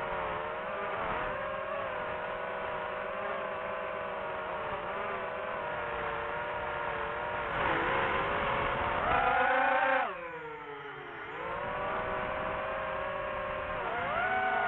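Drone propellers whining as several steady, slightly wavering tones. About ten seconds in the pitch drops sharply and climbs back over a second or so.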